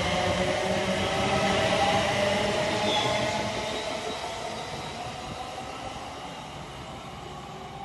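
A train passing on the main line: running noise with a steady whine, loudest for the first three seconds, then fading away as it moves off.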